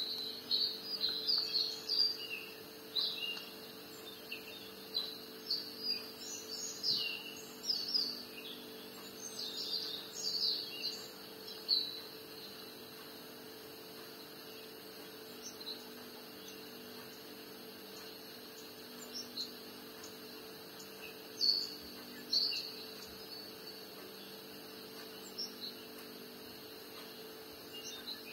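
Songbirds chirping and calling, a busy burst of overlapping chirps for the first dozen seconds, then scattered single calls, over a steady low hum.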